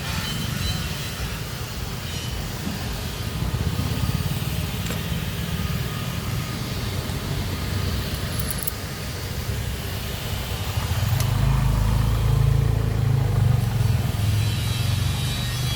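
A motor vehicle engine running with a low, steady rumble, getting louder about eleven seconds in.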